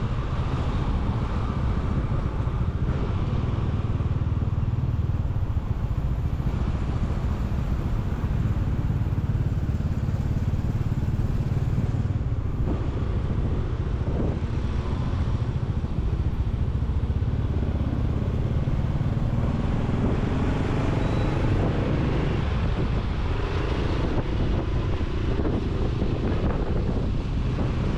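Motorcycle riding along at a steady pace, its engine and road noise mixed with a constant low wind rumble on the microphone.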